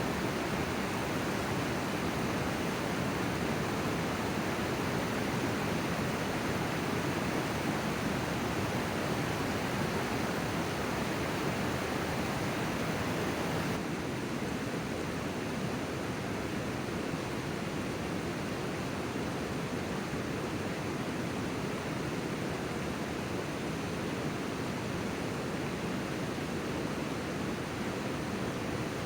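River water rushing steadily; about halfway through the upper hiss drops a little and it sounds slightly duller.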